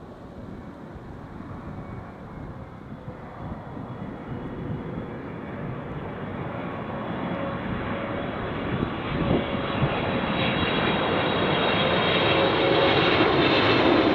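Airliner on short final approach to land, its engine noise growing steadily louder as it nears, with a faint steady whine over the rushing noise.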